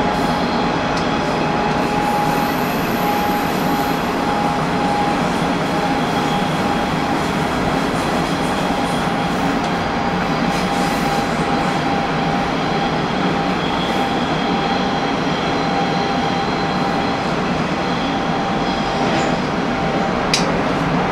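Hanshin Railway local train running at speed: a steady rumble of wheels on rail with a thin, steady high whine over it that fades out near the end, and one sharp click just before the end.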